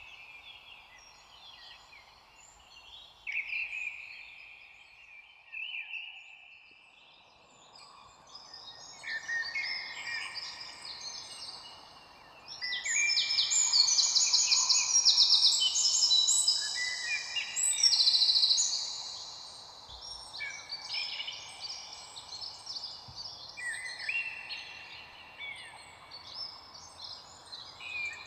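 Many songbirds singing and calling over one another, a tangle of short chirps and trills. The calling grows busier and louder about halfway through, over a faint steady background hiss.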